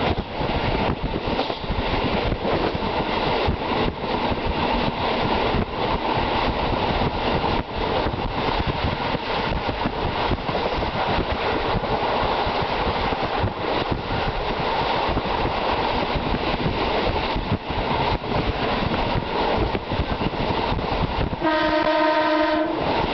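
Train running along the line, heard from inside the car: a steady rumble of wheels on rail with repeated rail-joint clicks. Near the end a train horn sounds one steady note for about a second and a half.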